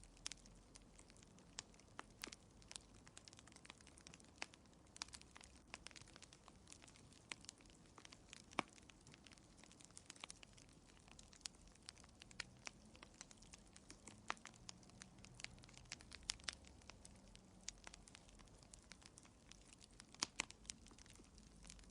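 Fire crackling in a fireplace: faint, irregular sharp pops and snaps, several a second at times, over a soft low rumble.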